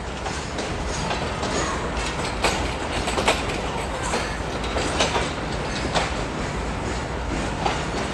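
Departing passenger train rolling by, its wheels clicking irregularly over rail joints and points over a steady rumble.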